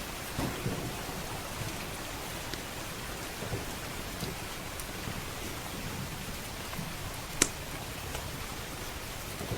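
Steady rain with low thunder rumbling underneath, and scattered crackles from a wood fire, including one sharp pop about seven seconds in.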